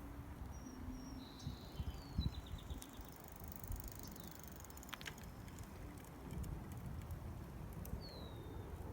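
Small songbirds singing: a few short high whistled notes and a quick trill in the first three seconds, then one falling whistle near the end, over a steady low rumble.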